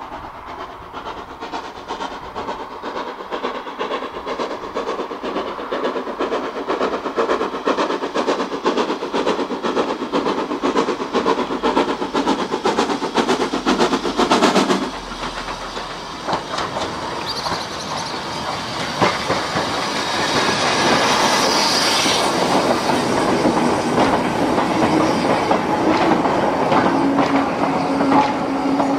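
Train wheels clattering over rail joints as wagons roll along the track, the rapid clicking growing louder. About halfway through the sound drops away sharply, then builds again, with a steady low tone joining near the end.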